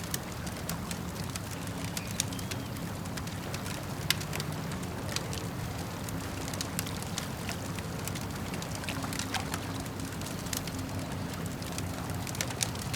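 Wood campfire crackling, with frequent sharp pops and snaps scattered irregularly over a steady low rush, and water lapping at a lakeshore underneath.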